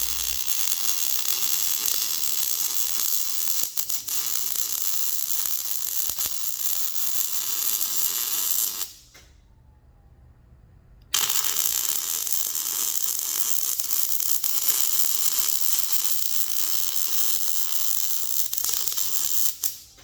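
Electric arc welding: a steady crackling hiss laid down in two long runs, broken by a pause of about two seconds near the middle as the arc is stopped and restarted.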